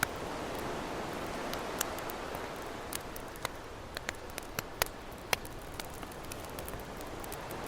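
Campfire crackling, with irregular sharp pops and snaps, over a steady wash of ocean waves.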